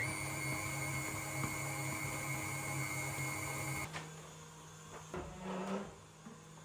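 Electric mixer running at high speed with a steady high whine, beating icing sugar into buttercream. It switches off about four seconds in, followed by a few short knocks.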